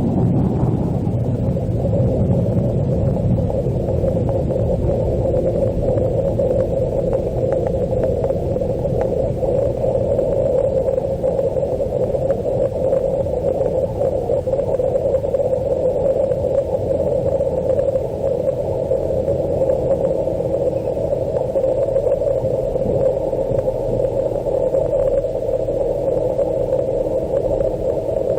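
Steady, muffled cabin noise inside an Airbus A330-200 airliner on the ground after landing, with a low rumble that eases off in the first second.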